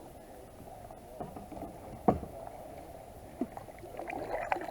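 Kayak paddling on calm water: small splashes and drips from a paddle, with one sharp knock about two seconds in, like a paddle striking the plastic hull.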